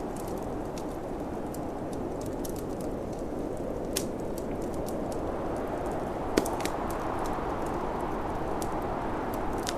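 Wood fire crackling with scattered sharp pops, the loudest about four and six and a half seconds in, over a steady low rush of snowstorm wind.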